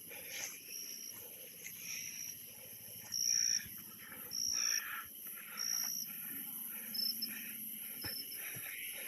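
Insects calling: a steady high-pitched drone, with a series of short, high chirps repeating about once every second or so, the loudest near the middle.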